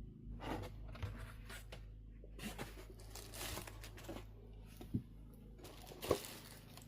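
Rustling and crinkling from something being handled, with a few light knocks, over a low steady hum.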